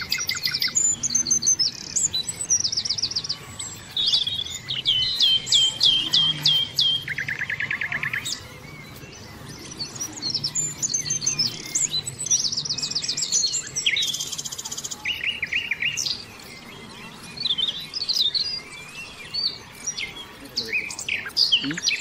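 Birds chirping and singing: quick runs of repeated high notes and trills, phrase after phrase with short pauses between.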